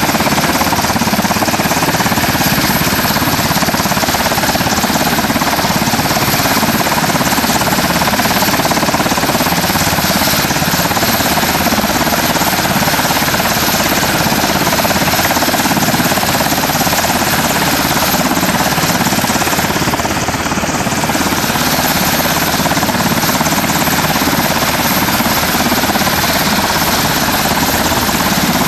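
Black Hawk military helicopter running on the ground, its twin turboshaft engines and main rotor making a loud, steady noise with a fast rotor beat.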